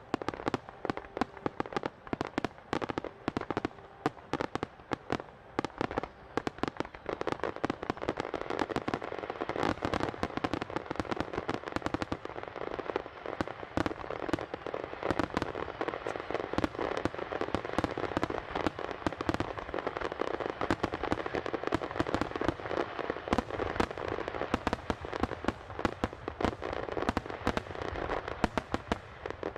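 Fireworks starmine barrage: large aerial shells launching and bursting in rapid succession, a dense, unbroken run of bangs many times a second.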